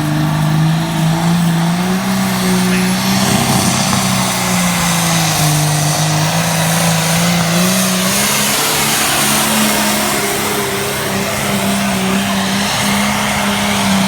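Modified Fiat 1300 tractor's engine with a straight-pipe exhaust running loud and hard under load in a tractor pull. The pitch climbs about two seconds in, sags a little, then climbs again and holds high.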